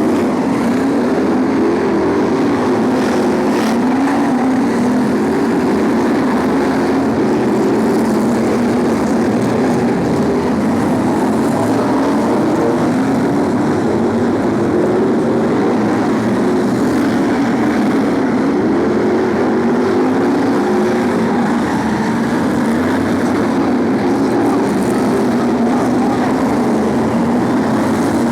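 Several BriSCA F1 stock cars' V8 engines racing together, a loud, steady drone of overlapping engine notes that waver up and down in pitch as the cars accelerate and lift.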